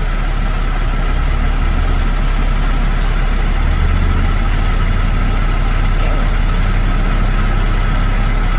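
Heavy truck engine idling steadily: a constant deep drone with a thin, steady whine above it.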